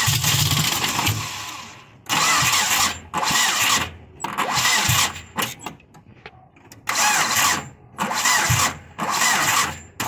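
Nissan 2.4-litre four-cylinder engine being cranked in repeated short bursts, each under a second with brief gaps, without starting. The no-start comes from its engine computer being soaked with water and misbehaving.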